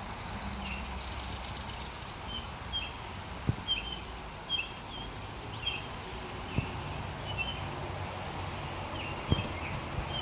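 Outdoor woodland ambience: short high chirps repeating about once or twice a second over a steady low rumble of distant traffic, with a few soft clicks.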